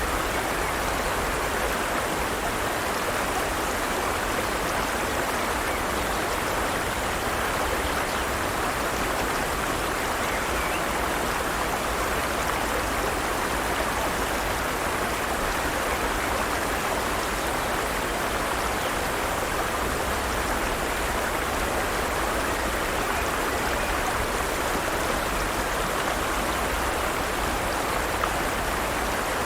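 Forest stream: water running steadily over rocks, an even rushing with no change in level.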